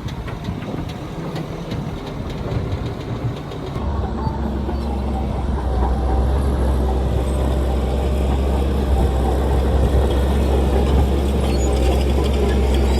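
Heavy earthmoving machine's diesel engine running close by. About four seconds in it settles into a loud, steady low drone and holds there.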